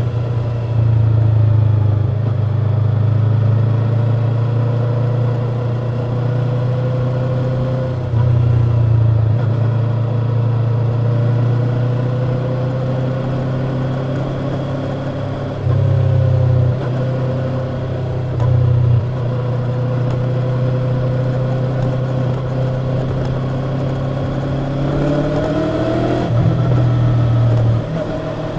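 Yamaha YZF-R25's parallel-twin engine running through its stock exhaust while riding, engine speed holding fairly steady with slow gentle changes. A low rumble swells louder several times. Near the end the pitch rises with a rev, then drops back.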